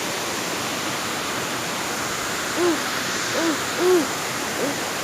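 Small waterfall rushing steadily, a constant hiss of falling water. Over it, a few short calls that rise and fall in pitch come midway and later, the loudest near the end.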